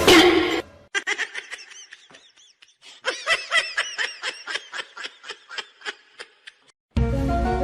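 A loud harsh burst at the start, then a long run of short laughter-like calls, about three to four a second, each rising and falling in pitch. Music comes back in near the end.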